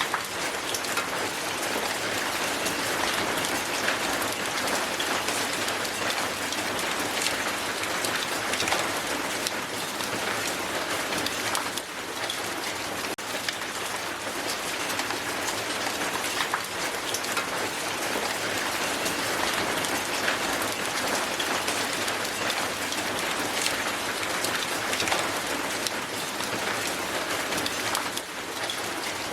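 Strong hail falling steadily onto the ground: a dense, even hiss of countless small ice impacts with sharper ticks scattered through it.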